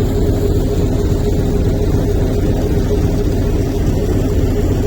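Vehicle engine running steadily with a constant low rumble.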